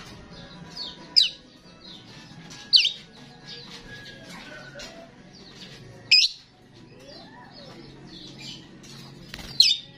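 Starling singing: four loud, sharp calls that sweep down in pitch, spaced a few seconds apart, with softer chattering and warbling between them.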